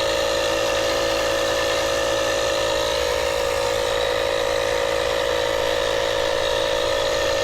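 A steady mechanical drone, like an engine idling, holding an even speed with no change in pitch or level.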